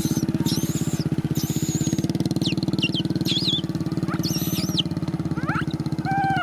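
Motorcycle engine idling steadily with a fast, even putter. Short high-pitched chirping calls come and go over it.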